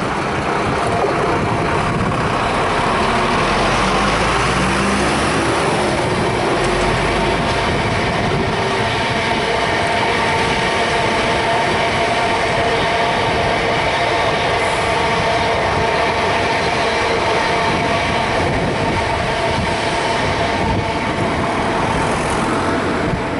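South West Trains electric multiple unit passing at speed: a steady rumble of wheels on rail with several steady whining tones over it.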